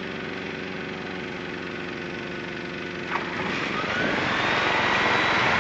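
Tecnam P92 light aircraft's engine throttled back to idle for a simulated engine failure, heard from inside the cockpit: a low, steady idle hum with airflow noise. From about three and a half seconds in, a rising whine and slowly building wind noise come in as the glide speeds up.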